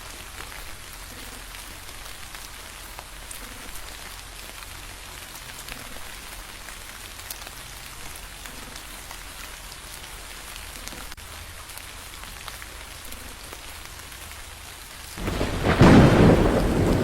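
Steady rain falling with scattered drop ticks, then near the end a sudden loud crash of thunder that rumbles on.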